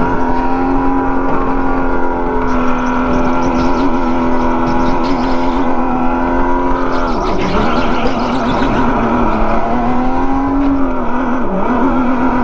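Go-kart motor running at high revs during a lap, a steady pitched drone that dips in pitch about seven seconds in and again near the end, then climbs back.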